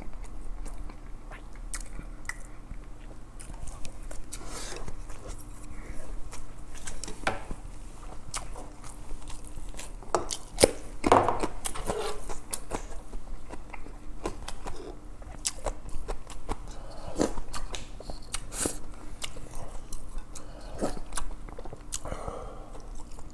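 Close-miked chewing and mouth sounds of a person eating rice and fish stew: irregular wet clicks and smacks, with a louder patch about eleven seconds in.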